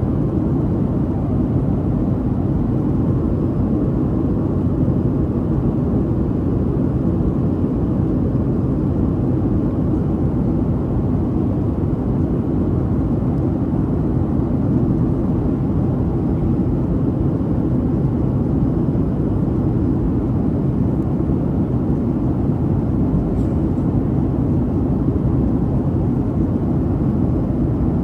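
Steady cabin noise of a Boeing 737-800 jetliner: an even, low rumble of engines and airflow, unchanging throughout.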